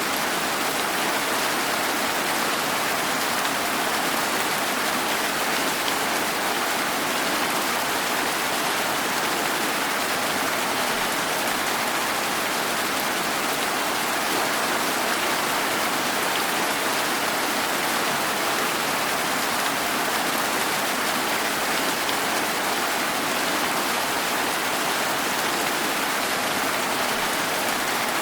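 Steady rain falling, an even hiss of drops with no breaks or separate events.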